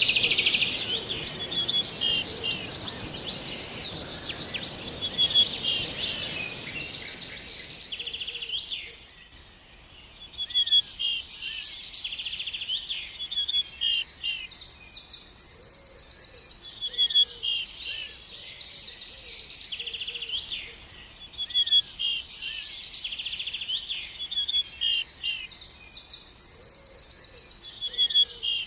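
A songbird singing a complex phrase of high, rapid trills and chirps, repeated three times with short pauses between. A steady hiss runs under the first song phrase and then stops.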